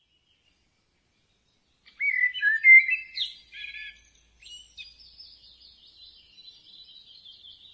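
Songbird singing: a loud, quick warbling phrase starts about two seconds in, followed by softer, continuous high twittering.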